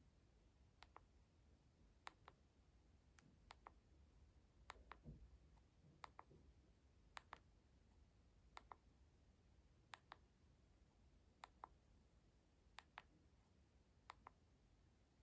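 Quiet, sharp clicks, often in close pairs, repeating about every second and a half as an ASMR trigger.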